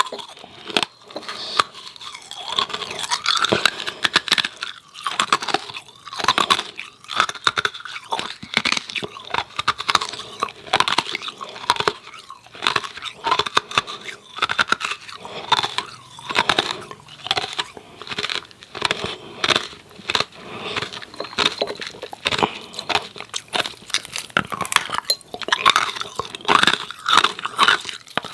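Hard ice cubes crunched and chewed close to the microphone, several crunches a second throughout.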